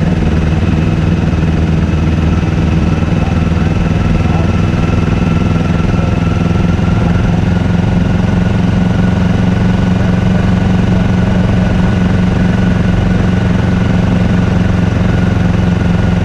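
Kawasaki Ninja 400's parallel-twin engine running steadily at low, nearly constant revs, with a slight shift in pitch about seven seconds in.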